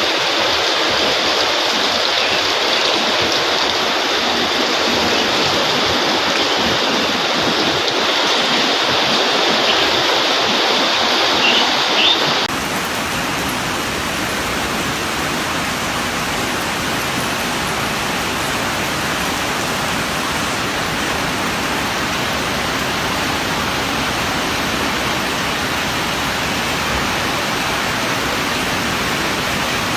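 Fast-flowing floodwater rushing steadily. About twelve seconds in, the sound switches abruptly to a duller, deeper rush.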